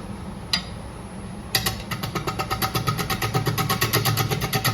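Wood lathe running with a steady hum. About a second and a half in, a bowl gouge starts cutting the uneven edge of a paper birch blank, giving a rapid, even run of knocks, roughly eight a second. This is an interrupted cut, with the tool striking the out-of-round rim on every turn.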